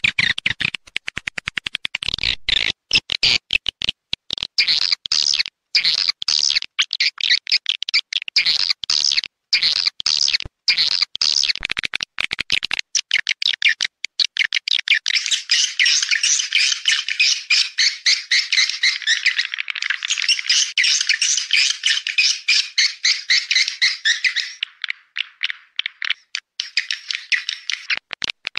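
Edible-nest swiftlets twittering in rapid, dry, chattering trills: a recorded lure call played to draw swiftlets into a bird house. About halfway through, the chattering thickens into a denser, layered chorus for several seconds, then thins out again.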